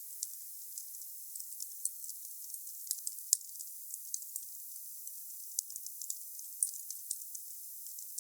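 Wood bonfire crackling: irregular sharp pops and snaps over a steady thin hiss, with a louder pop a little over three seconds in and another about two-thirds of the way through.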